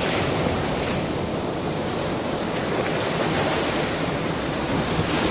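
Ocean surf: a steady wash of breaking waves. The hiss eases about a second in and builds again near the end as the next wave comes in.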